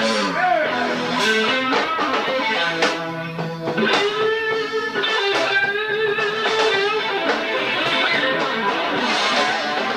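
Live blues band playing an instrumental stretch between verses, an electric guitar carrying the lead with sustained and bent notes over the rhythm section.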